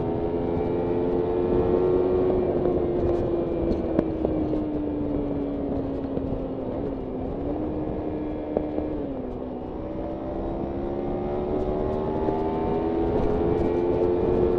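Kawasaki Ninja 300's parallel-twin engine under way: revs climb briefly, ease off slowly for several seconds with a couple of short blips, then climb steadily again.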